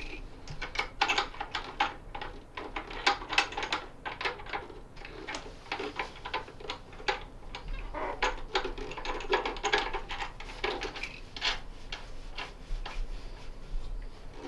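Irregular clicks, taps and light clatters of a kayak ergometer's parts being handled and fitted as the machine is reassembled.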